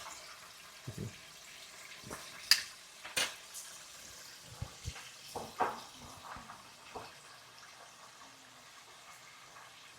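Scattered clicks and knocks over a steady hiss, the sharpest click about two and a half seconds in.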